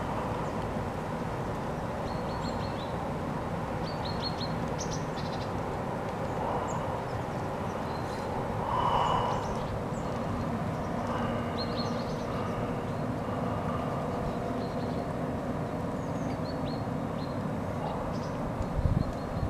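Small birds calling in short, high chirps, scattered a few at a time, over a steady low rumble. A couple of knocks come near the end.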